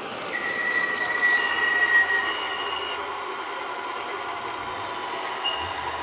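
MTH R40 model subway train's onboard DCS sound system playing steady running noise with long, high-pitched wheel squeals, two overlapping in the first half and a short one near the end, as the train pulls into a stop on the layout.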